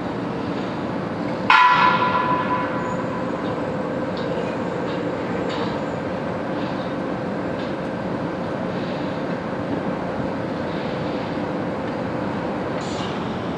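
Steady running noise of a Shinkansen train at the platform, with a faint steady hum. About a second and a half in, a single bell-like chime rings out and dies away over about a second.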